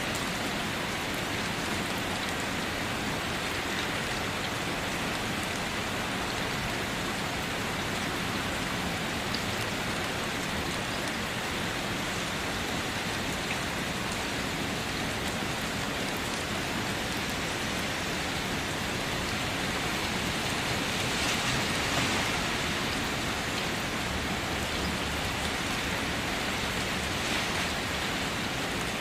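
Steady rain falling on a car, a dense even patter of drops with no let-up, swelling slightly for a moment about three quarters of the way through.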